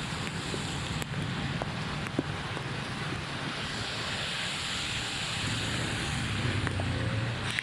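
Steady rush of heavy rain and running floodwater, with a low rumble and wind buffeting the microphone; the rumble swells near the end.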